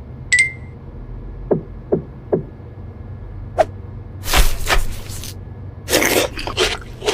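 Eating and food-handling sounds. There is a click with a brief ringing tone, then three quick knocks. After another click come two longer bursts of crunchy crackling.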